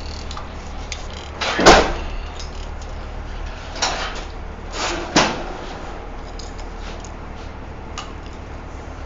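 A few sharp knocks and bangs, the loudest about two seconds in and two more around four to five seconds, over a steady low hum.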